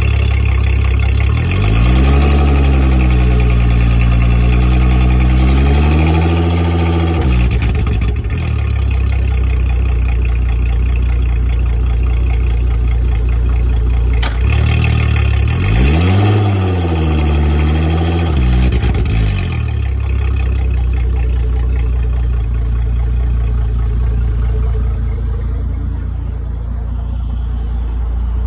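Outboard engine on a Scout 225 XSF center-console boat idling, revved up twice: each time the pitch climbs, holds a few seconds, and drops back to idle.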